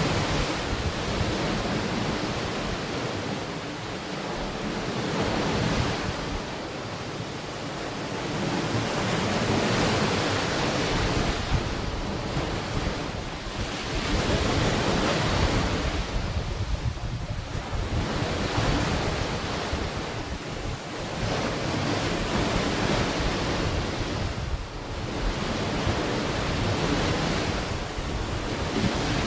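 Ocean surf washing onto a beach, the waves swelling and ebbing every four to five seconds, with a low rumble of wind buffeting the microphone.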